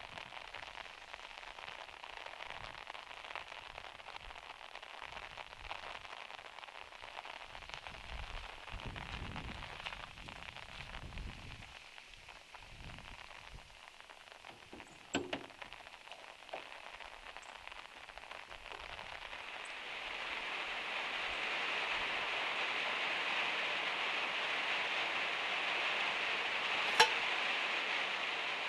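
Rain drumming steadily on the van's metal roof, growing heavier about two-thirds of the way through, with a couple of sharp knocks inside the van.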